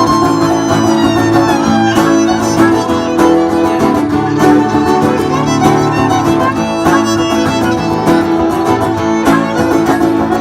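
Old-time string band playing an instrumental break, with the fiddle taking the lead over rhythm guitar.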